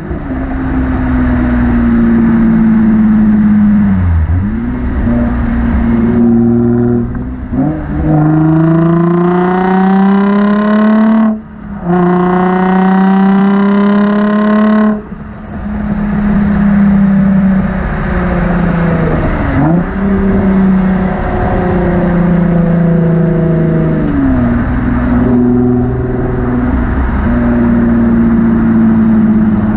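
Nissan 350Z's 3.5-litre V6 through a Motordyne cat-back exhaust, pulling hard with the pitch climbing in each gear and dropping back at each of several gear changes.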